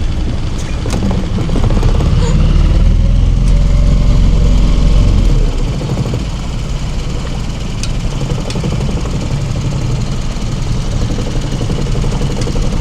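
Engine of a small hired leisure motorboat running steadily while under way, with a heavy low rumble that eases about five and a half seconds in.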